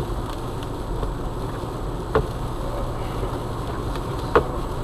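Steady road and engine noise inside a car driving on a sleet-covered highway, with a short knock three times at an even pace, about every two seconds.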